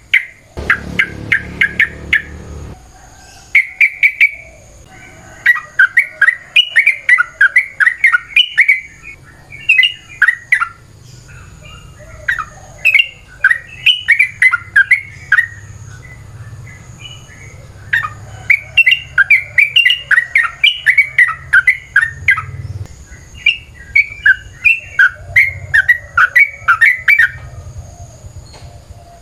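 Yellow-vented bulbul (trucukan) singing long, rapid runs of bubbly chattering notes in repeated bursts. A faint steady high-pitched whine runs underneath.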